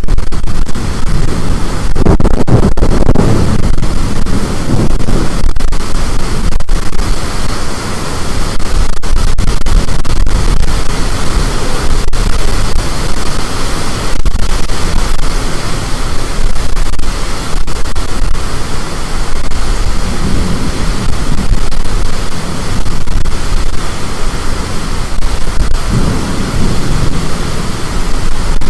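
Storm wind blasting the microphone: a loud, steady rush of noise that swells with gusts a few times.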